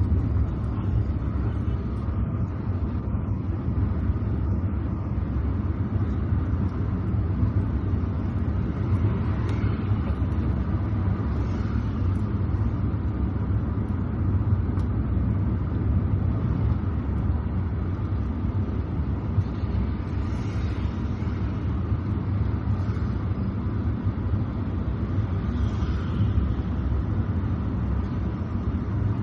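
Steady low rumble of a car driving on a wet road, with a few faint swishes rising and fading along the way.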